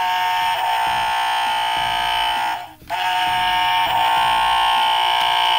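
Electronic sound effect from a toy playset's small speaker: a loud, steady, buzzing alarm-like tone held about three seconds, a brief break, then held again for about three seconds.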